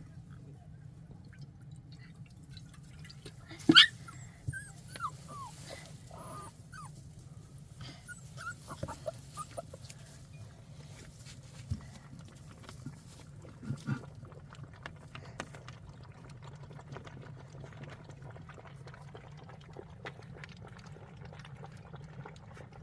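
A dog whining and whimpering in short, high, falling cries. The loudest, sharpest cry comes about four seconds in, with fainter whines scattered after it among small clicks.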